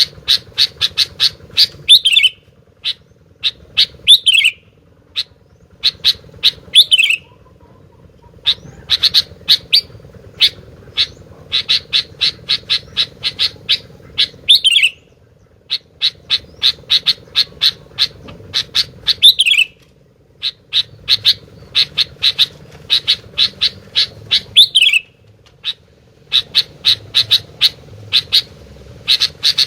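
Kutilang (sooty-headed bulbul) singing: fast runs of sharp, high chip notes, each run ending in a short downward-sliding note, repeated every few seconds.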